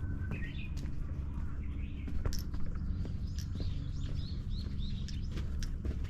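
Small birds chirping with quick, short calls that come thicker in the second half, over footsteps on a path and a steady low rumble.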